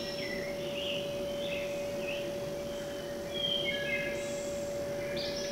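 Birds chirping and warbling, many short calls overlapping, over a steady hum and background hiss.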